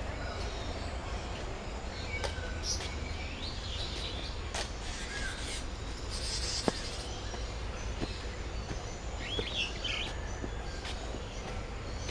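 Birds calling, a few scattered chirps and squawks that rise and fall in pitch, over a steady low background rumble with occasional sharp clicks.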